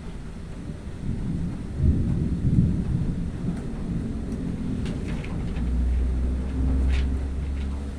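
Thunder rumbling low, swelling about two seconds in and again in a long second roll near the end.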